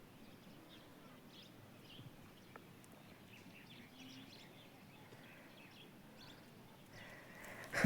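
Faint, scattered chirps of small birds over a quiet outdoor background, with a brief rustle near the end.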